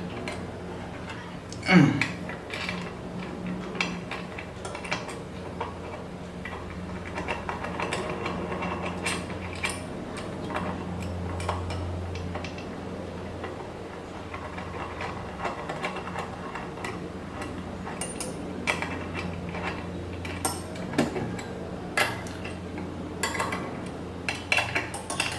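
Metal parts and hand tools clinking and clicking as linear rails are fitted and bolted onto a CNC Z-axis assembly, with irregular knocks and one louder clank about two seconds in, over a steady low hum.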